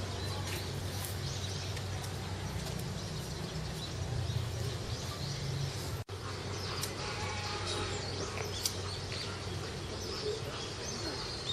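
Small birds chirping here and there over a steady low hum of outdoor background noise. The sound drops out for an instant about halfway through.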